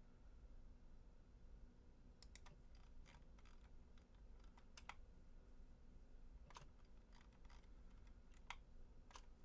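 Faint, scattered clicks of a computer keyboard and mouse, starting about two seconds in and coming irregularly, over a low steady hum.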